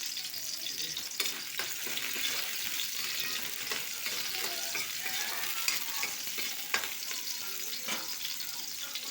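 Garlic, ginger and onion sizzling in hot oil in a pan while being stirred, with a few sharp knocks of the spatula against the pan.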